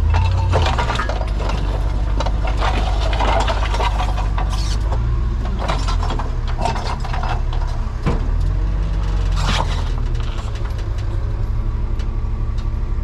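Heavy vehicle engine running steadily, with repeated metallic knocks and rattles over it.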